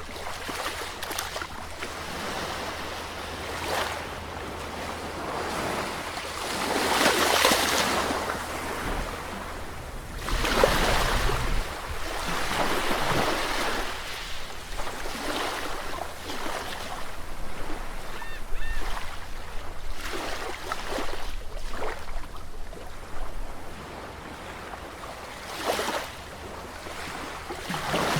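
Sea waves breaking and washing in, swelling and falling back every few seconds. The loudest surges come about seven and eleven seconds in.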